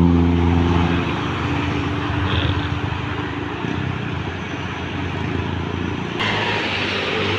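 An intercity bus's engine passing, loudest at the start and fading over the first second. A fainter engine hum lingers for a few seconds, then steady road and traffic noise.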